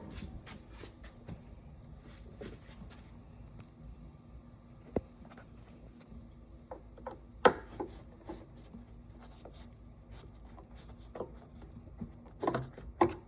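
Scattered light clicks and taps of hand work on a liftgate gas strut's end fittings, with a few sharper clicks about five seconds in, midway and near the end, over a faint steady hum.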